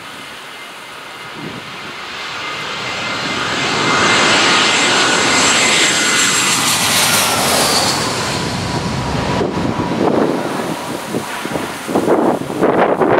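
Jet airliner passing low and close overhead: the engine noise swells to a loud peak, then its whine drops in pitch as the aircraft goes by. Wind gusts buffet the microphone near the end.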